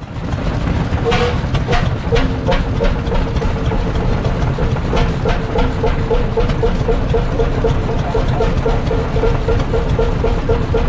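A large vintage engine running steadily with a heavy low rumble and a regular beat, about three to four pulses a second, with a few sharp clacks in the first few seconds.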